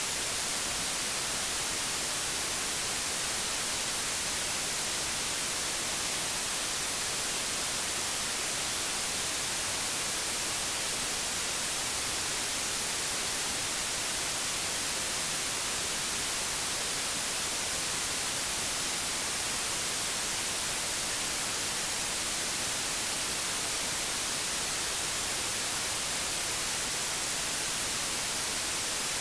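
Steady hiss of old analogue television static, even and unchanging, brighter in the high end.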